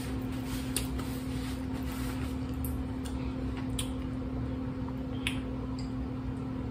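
Steady low room hum with a few faint clicks and small taps scattered through it.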